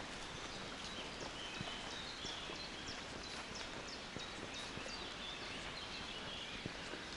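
Small songbirds chirping and singing in a forest, a rapid run of short high notes and quick downward chirps, over a steady outdoor hiss, with scattered soft footsteps on the forest path.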